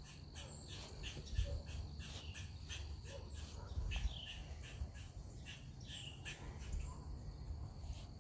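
Faint outdoor ambience: a steady run of small high chirps, a few a second, with a few separate bird calls, over an uneven low rumble.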